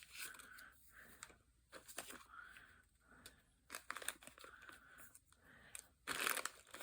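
Paper rustling and crinkling in short, scattered bursts as craft pieces are handled, with a louder burst of crinkling about six seconds in.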